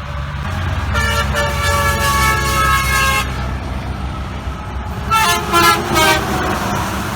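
Semi-truck air horn sounding a chord of several notes held for about two seconds. About two seconds later it gives a few short blasts, over the steady low rumble of truck traffic.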